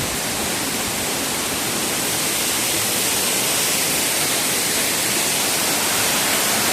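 Steady rush of a waterfall, an even hiss of falling water that grows a little louder a couple of seconds in.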